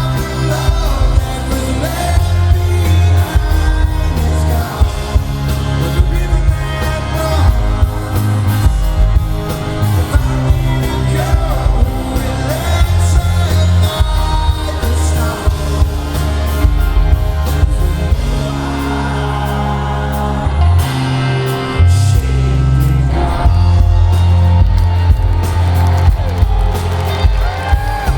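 Live rock band playing loudly in a large venue, with singing over guitars and a heavy, booming bass.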